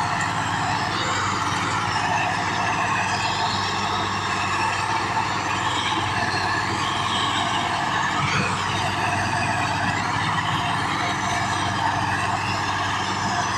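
Tractor engine running steadily at a constant level, with a wavering higher whine over the low engine note.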